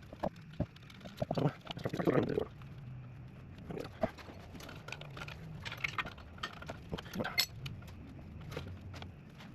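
Scattered light clicks and knocks of hand work on brake parts, with a louder rustling clatter about two seconds in.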